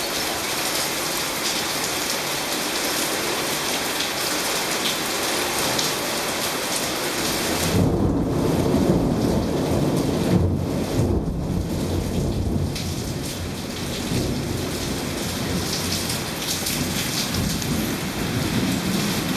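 Torrential rain hissing on surfaces. About eight seconds in, a long low rumble of thunder swells and rolls on for several seconds over the rain.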